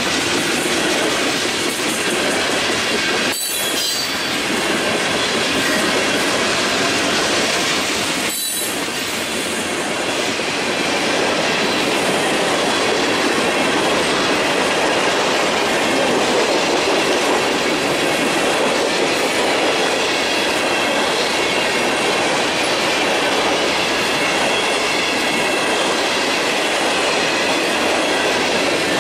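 A freight train's tank cars and covered hopper cars rolling past, steel wheels running steadily on the rails with a thin, faint squeal.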